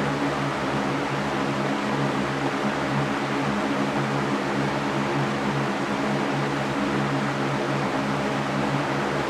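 Electric fan running steadily: an even airy rush with a low motor hum under it.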